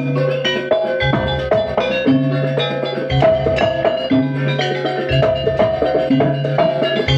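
Jaranan gamelan music playing: drums and struck metal percussion keep a busy, steady beat over a repeating melody, with a low pitched stroke about once a second.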